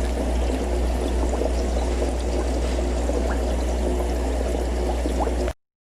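Aquarium sponge filter bubbling and trickling steadily over a constant low hum; it cuts off abruptly near the end.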